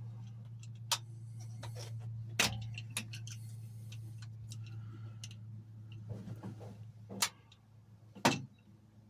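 Scattered sharp metallic clicks and clinks as a hose clip is worked into place on the fuel pipework, the loudest two about two and a half seconds and eight seconds in, over a steady low hum that fades near the end.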